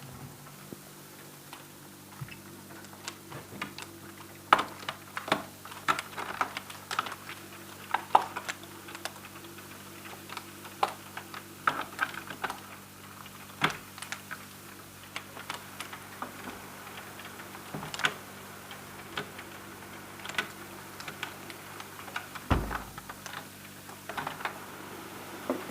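Hailstones hitting a window pane: irregular sharp ticks and taps, bunched several a second at times, with one duller, heavier knock near the end. A faint steady hum runs underneath.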